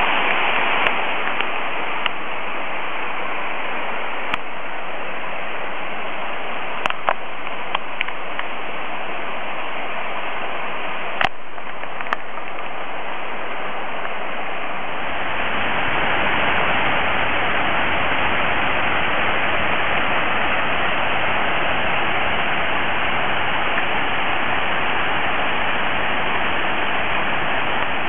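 Spring-fed waterfall splashing, a steady rush of water with a few light clicks in the first half. About halfway through the rush grows fuller and deeper.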